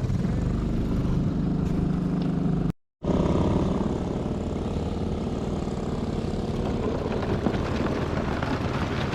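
Small outboard motor running steadily. It cuts out abruptly for a moment about three seconds in.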